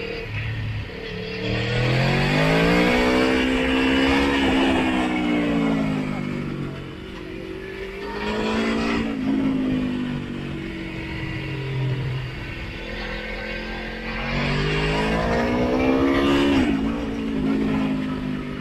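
Sport motorcycle engine heard on board, revving up under acceleration and then falling away as it eases off, three main times, with wind noise rising when it is fastest.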